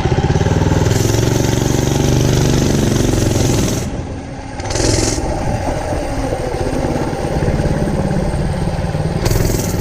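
Mega Moto Mega Max minibike's 212cc single-cylinder engine revving up under throttle, easing off briefly about four seconds in, then running on. A short hiss about five seconds in.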